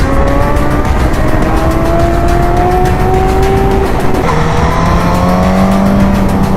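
Suzuki GSX-S1000's inline-four engine pulling hard under acceleration, its pitch climbing steadily. About four seconds in, the pitch drops sharply at an upshift, then climbs again in the next gear.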